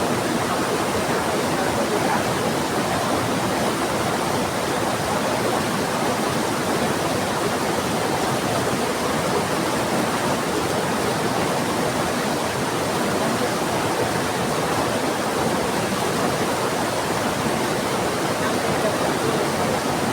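Heavy rain falling together with a rushing river: a steady, dense water noise with no breaks.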